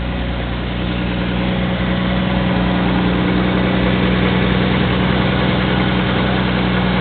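1975 Oldsmobile Omega's engine running at a steady idle, a little louder in the first second or so and then even.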